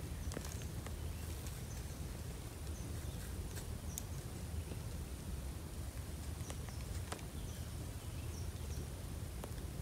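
Faint short high chirps of birds, falling in pitch, every second or two over a steady low rumble of outdoor background noise, with a few sharp clicks.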